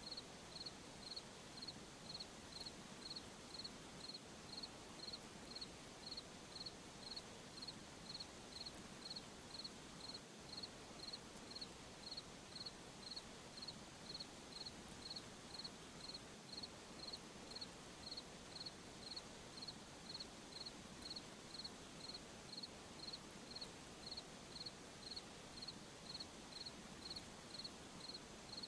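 A cricket chirping at night in an even, steady rhythm, a little under two high chirps a second, over a faint hiss of night ambience.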